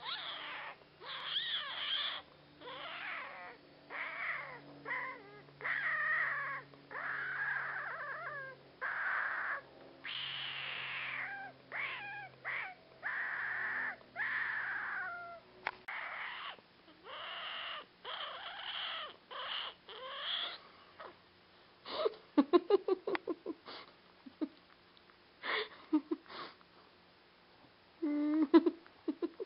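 A person repeatedly making a high, wavering, whiny squeal, each call gliding up and down in pitch like a cat's meow, about a dozen times. It is followed about two-thirds of the way in by a rapid run of short sharp sounds, and by a few short low sounds near the end.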